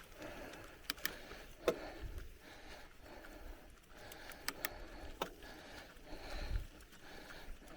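Bicycle rolling over a forest dirt trail: tyre noise with sharp clicks and rattles from the bike over bumps, and a couple of brief low rumbles.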